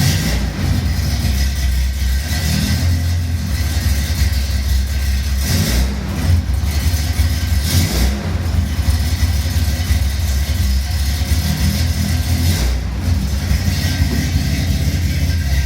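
Datsun 240Z's 2.4-litre inline-six engine running, a steady low drone with a few brief louder surges about six, eight and thirteen seconds in.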